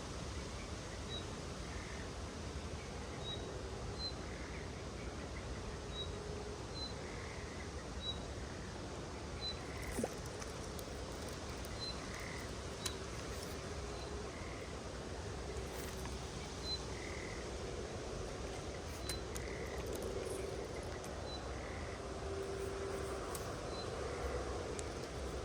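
Outdoor nature ambience: a small animal repeats a short high call about once a second, with a softer lower call between, over a steady hiss. A few sharp clicks sound after about ten seconds.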